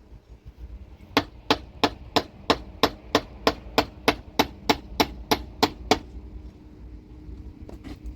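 Steady hammering, about fifteen sharp blows at roughly three a second, which stops a little under two seconds before the end, followed by a couple of faint taps.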